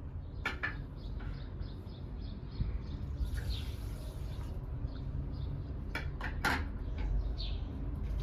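A few sharp clinks of kitchen utensils against a pan or dish, about half a second in and again twice near six seconds, over a steady low rumble with birds chirping now and then.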